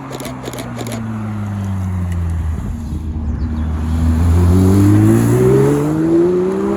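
A car's engine passing close: its pitch sinks over the first three seconds as it eases off, then climbs steadily as it accelerates, growing louder toward the end.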